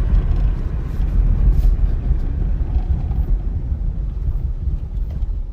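2002 Honda Civic LX, with a freshly rebuilt automatic transmission, driving, heard from inside the cabin as a steady low rumble of engine and road noise. There is no clattering while it is in gear. The rumble eases off slightly near the end.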